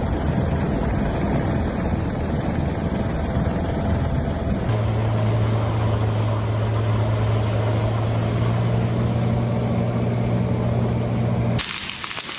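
Helicopter engine and rotor noise. It cuts abruptly about five seconds in to a steadier, loud low hum with a few fixed tones. Near the end it changes again to a brief hiss.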